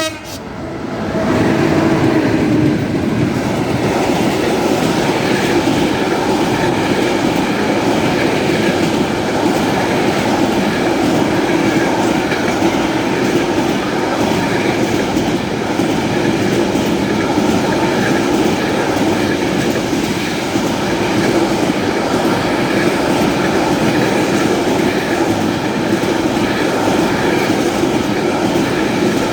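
Freight train passing through a station: the continuous rolling noise of wagon wheels on the rails, building up over the first two seconds and then holding steady.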